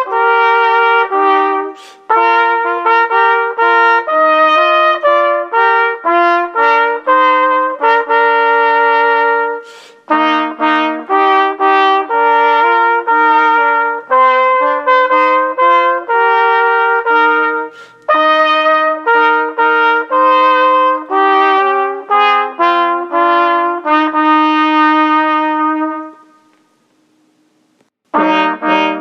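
Brass music, led by trumpet, playing in several parts in short phrased lines. A held chord fades out about 26 seconds in, and after a pause of about two seconds the playing starts again with lower notes.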